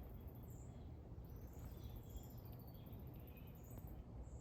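Faint backyard ambience: scattered bird chirps and a very high, rapidly pulsing insect trill that breaks off briefly a couple of times, over a low steady rumble.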